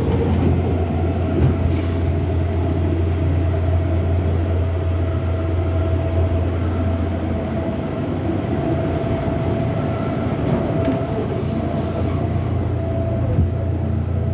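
MTR Airport Express electric train running, a steady loud rumble with a thin steady tone over it.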